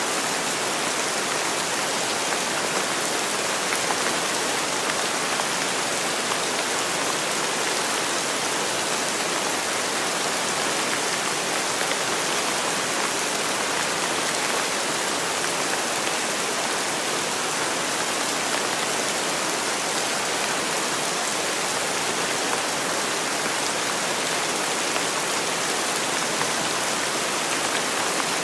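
Steady rain falling on surfaces, an even hiss of many drops with no let-up.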